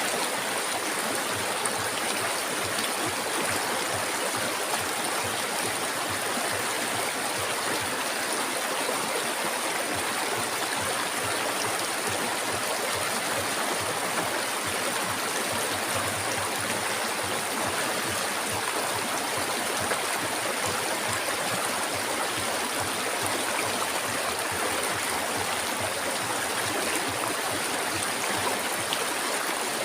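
Flowing river water: a steady, even rush of moving water with no pauses.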